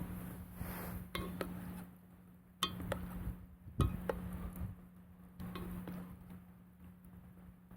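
Scattered light clinks and knocks of cookware and utensils being handled, about six separate strikes, over a steady low hum.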